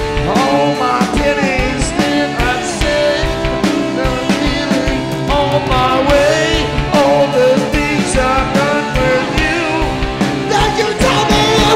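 Live rock band playing loudly: drum kit keeping a steady beat under bass and electric guitars, with a wavering, bending lead line over the top.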